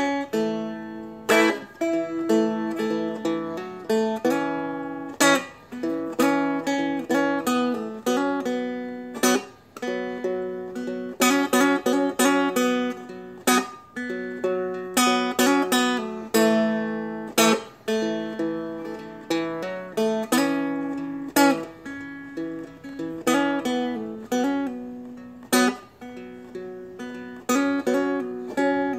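Seagull Merlin, a small four-string fretted dulcimer, played solo: notes picked and chords strummed, with a sharp strum every second or two and the strings ringing on between them.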